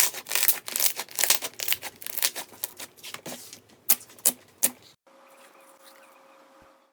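Slime being squeezed and pressed, giving a dense run of crackling, popping clicks that thins to a few single pops. After about five seconds it gives way to a quiet stretch with a faint steady hum.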